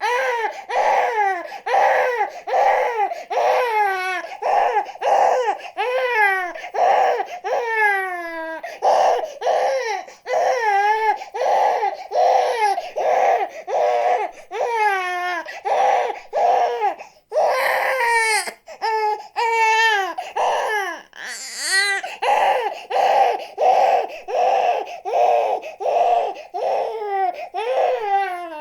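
Baby crying hard in a steady run of short wails, about three every two seconds, each falling in pitch with a quick breath between. A few longer, drawn-out wails come in along the way.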